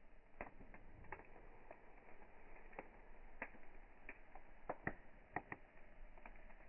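Wood campfire crackling softly, with scattered sharp pops at irregular intervals; the loudest pops come a little under five seconds in and again about half a second later.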